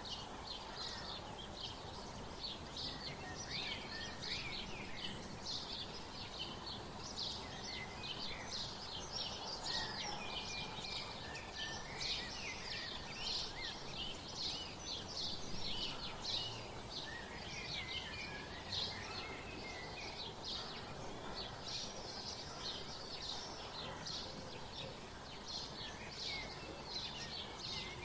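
A chorus of small songbirds chirping continuously, many short, quick calls overlapping, over a steady outdoor background hiss.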